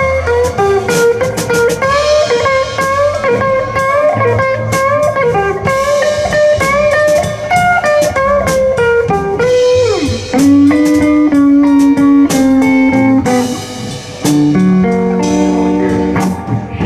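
Live blues band in an instrumental break: an electric guitar solo with bent, sliding notes over bass and drums, settling into held lower notes near the end.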